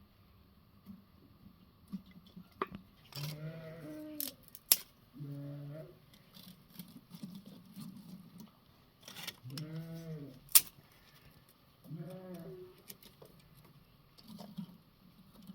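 Livestock bleating about four times, each call up to about a second long, with a few sharp clicks or knocks between the calls.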